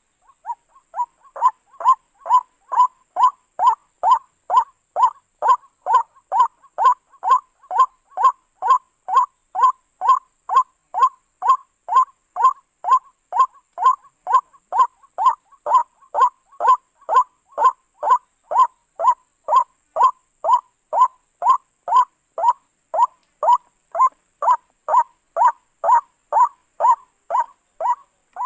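White-breasted waterhen (ruak-ruak) calling: one short note repeated evenly about twice a second, without a break, building to full strength over the first second or two.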